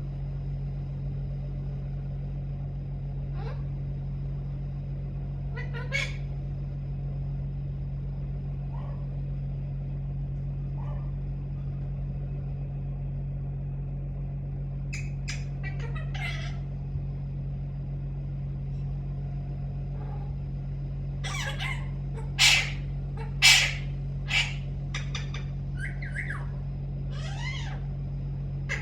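Pet parrot calling: a few scattered short calls, then a run of loud squawks about three-quarters of the way through. A steady low hum sits underneath.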